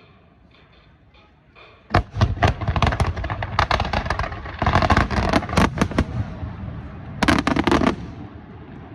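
Fireworks bursting in quick succession. A dense volley of sharp bangs and crackles starts about two seconds in, followed by a second short cluster near the end, then a fading rumble.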